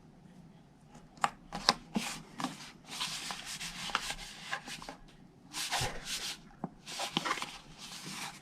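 Sheet of patterned paper being handled and rubbed by hand as it is pressed onto a paper box: bursts of rubbing and rustling, with a few sharp taps a little over a second in.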